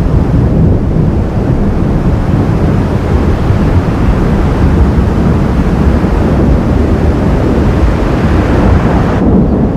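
Loud, steady low rumble of a thunderstorm: rolling thunder mixed with wind buffeting the microphone.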